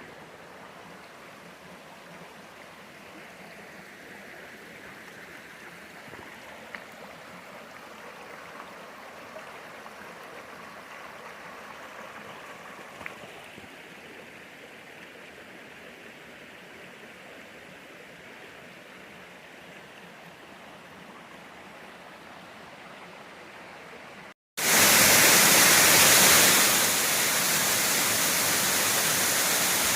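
A small mountain stream running softly and steadily. About twenty-four seconds in, after a short break, a much louder, even rush of water takes over.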